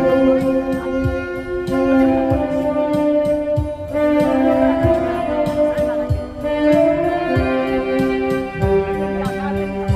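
Tenor saxophone playing a slow melody of long held notes over a backing track with a steady low beat.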